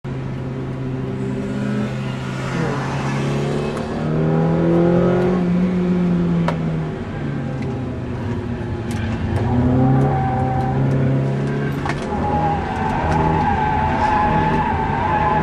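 Hyundai Coupé (Tiburon/Tuscani) engine heard from inside the cabin while lapping a track, its revs climbing and dropping several times through gear changes. A few sharp clicks come through over the engine.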